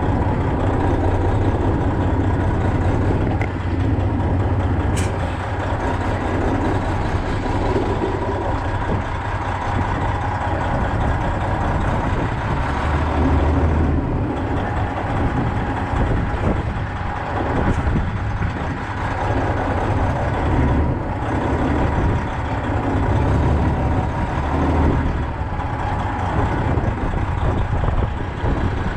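Semi-truck diesel engine running steadily, with a single sharp click about five seconds in.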